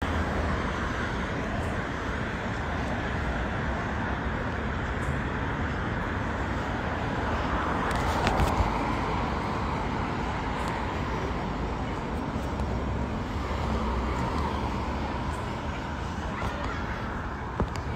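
Steady road traffic noise with a low rumble, with a short clatter about eight seconds in.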